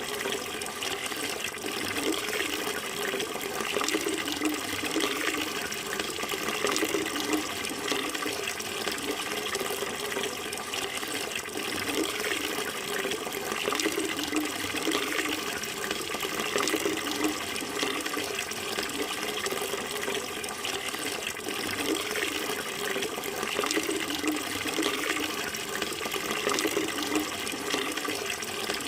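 Flowing water running steadily, an unbroken rushing sound with no pauses or changes.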